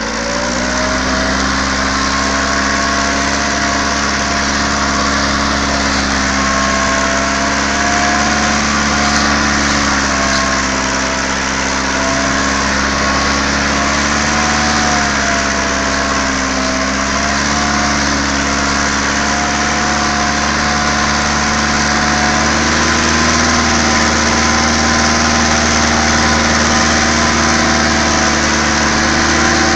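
A tractor engine running steadily, its pitch rising slightly just after the start and then wandering a little.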